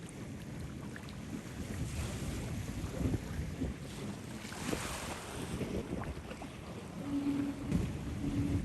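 Wind buffeting the microphone outdoors by water, a rough low rumble that swells in a gust about halfway through, with a brief low hum twice near the end.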